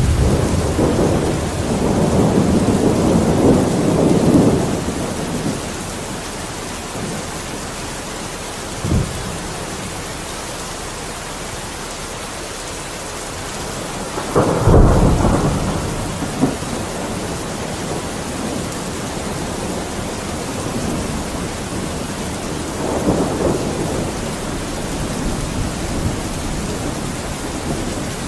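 Steady rain with thunder. A rumble dies away over the first few seconds, a short sharp crack comes about nine seconds in, and the loudest clap comes near the middle and rumbles off. A softer rumble follows later.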